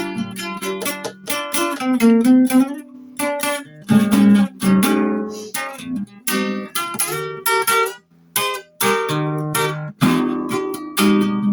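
Acoustic guitar improvising: a busy run of plucked notes and strummed chords that ring and die away, with a short break about eight seconds in.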